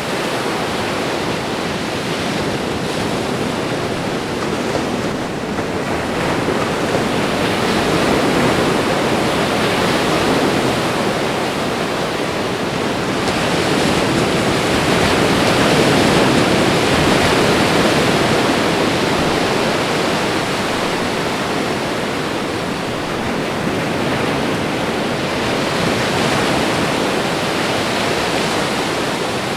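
Ocean surf washing continuously onto a shore. The noise swells and eases slowly over several seconds, loudest about halfway through.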